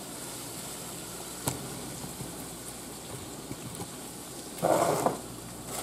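Ground beef, onion and bell pepper frying in a skillet with a steady sizzle, one click of the spoon against the pan about a second and a half in, and a short louder scrape of stirring about five seconds in.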